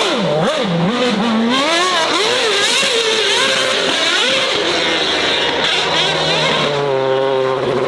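Performance car engine revving hard, its pitch swinging up and down over and over, then holding steadier near the end.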